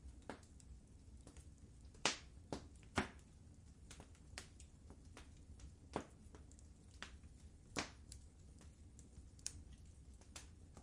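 Wood fire in a fireplace crackling: irregular sharp pops and snaps over a low steady rumble, with the loudest pops about two and three seconds in and another near eight seconds.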